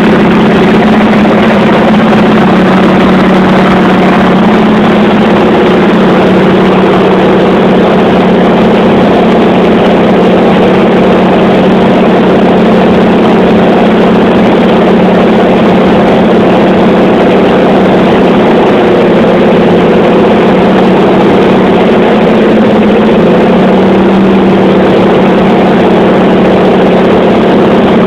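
Piston aircraft engine droning loudly and steadily in flight, its pitch holding almost constant.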